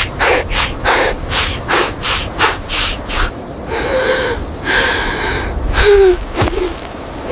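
A person gasping for breath in quick, regular pants, about three a second, then a few short voiced whimpering sounds.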